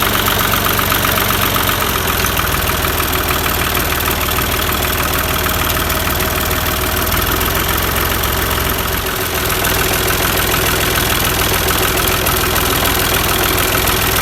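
Rebuilt diesel tractor engine running at idle with a steady knock, its speed shifting slightly a couple of times and dipping briefly about nine seconds in before settling again.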